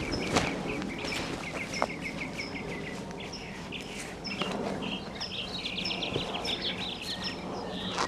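Songbirds chirping: short high notes repeated over and over, with a quick run of trilled notes about four and a half seconds in.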